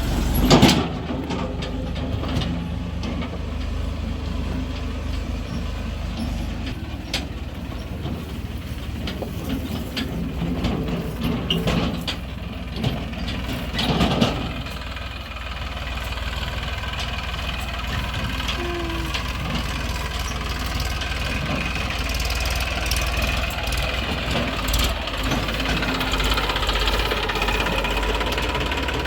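Diesel engines of a JCB 3DX backhoe loader and a tractor running steadily at work. There are two loud thuds, about half a second in and about 14 seconds in.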